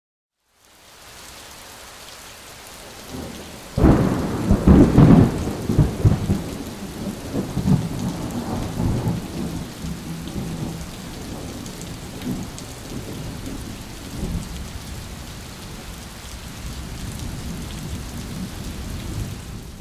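A clap of thunder breaks about four seconds in and rolls on as rumbling for several seconds, over a steady hiss of rain.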